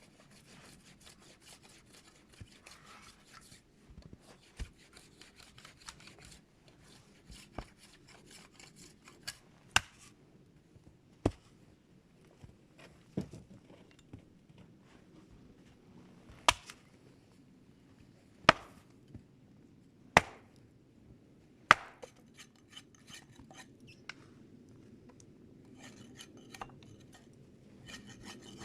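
Wood being chopped with a blade: single sharp blows about every one and a half to two seconds, loudest in the middle stretch. Quick rasping scrapes of wood being worked come near the start and again near the end.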